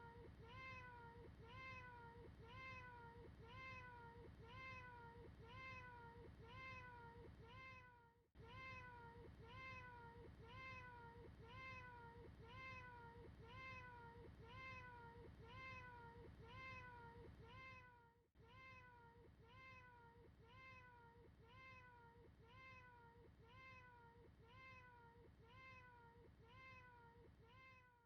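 A domestic cat's meow, one short clip looped over and over so the identical call repeats evenly at nearly two a second, each rising then falling in pitch. The loop breaks off briefly about eight seconds in and again about eighteen seconds in, then carries on.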